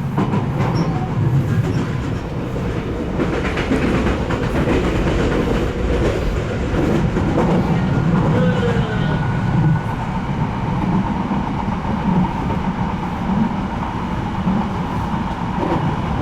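Odakyu electric commuter train running along the track: a steady rumble of wheels on rails, with a cluster of clacks over rail joints about three to four seconds in and a faint steady whine later on.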